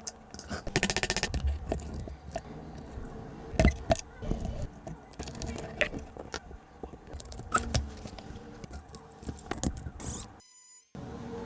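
Small hard parts being handled: scattered clicks, knocks and scrapes, with a quick rattling run of clicks about a second in.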